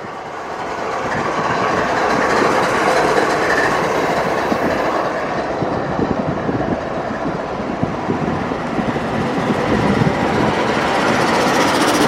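Railroad train rolling past, the noise of its cars building over the first two seconds and then holding steady.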